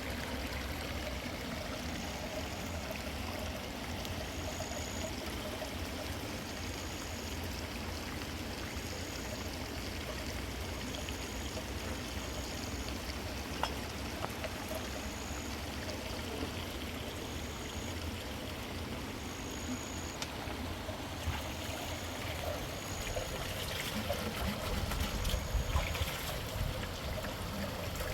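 Flooded river water rushing and flowing steadily. Faint short high chirps repeat every second or two over it. Near the end a low rumble grows louder.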